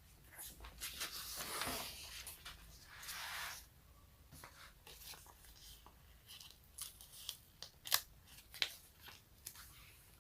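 Close-up ASMR sticky sounds: something tacky being slowly peeled apart with a crackling, tearing sound lasting about three seconds, followed by quieter crackles and a few sharp sticky snaps near the end.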